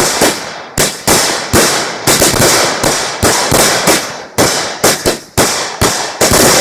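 Fireworks going off in a rapid string of loud bangs, two or three a second at uneven spacing, each fading quickly before the next.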